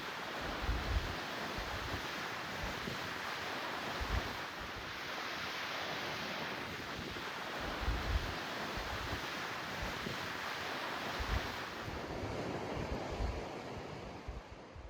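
Steady rushing noise of wind and surf, with wind buffeting the microphone in repeated low thumps.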